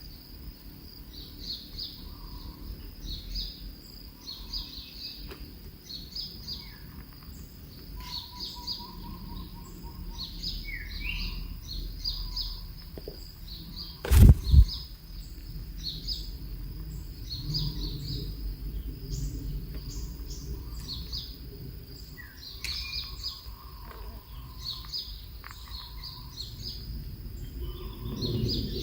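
Birds chirping over and over in quick short high notes, with a steady high-pitched tone and a low rumble behind them. One loud thump about halfway through.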